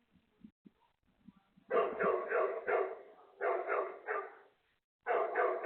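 A dog barking in quick runs of three or four barks, with short pauses between the runs; the barking starts nearly two seconds in.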